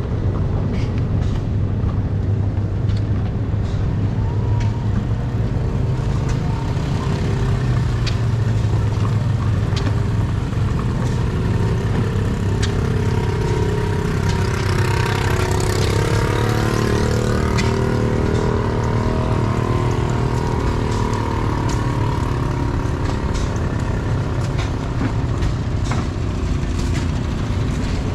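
An engine running steadily at an even speed, with a rushing noise swelling up briefly about halfway through.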